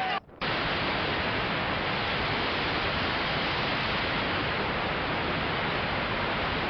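Steady rushing of heavy water, an even noise with no separate events, after a short break just after the start.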